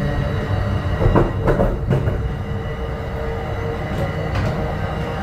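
Bombardier MultiLevel commuter coaches running at speed, heard from between two cars: a steady low rumble of wheels on rail. A cluster of clanks and rattles comes about a second in, and two more near the end.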